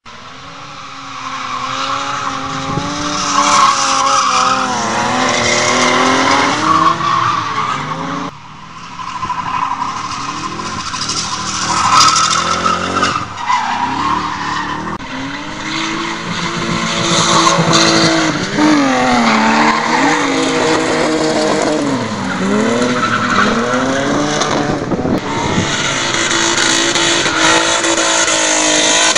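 Drift cars sliding with engines revving hard, their pitch climbing and falling again and again as throttle is blipped through the slides, over a constant screech and hiss of spinning tyres. The sound drops away sharply for a moment about eight seconds in, then comes back just as loud.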